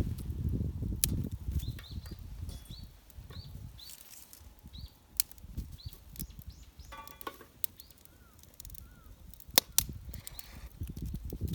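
Wood fire crackling in a homemade iron fire pit, with a few sharp isolated pops, two of them close together near the end. Short high chirps repeat about twice a second through the middle, like a small bird calling.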